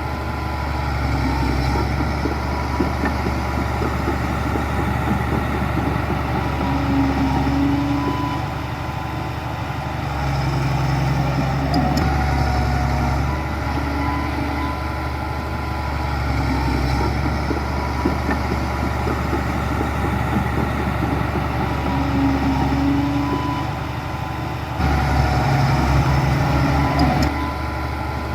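Heavy diesel engine of a Komatsu bulldozer working, its note swelling and easing every few seconds, loudest briefly near the end.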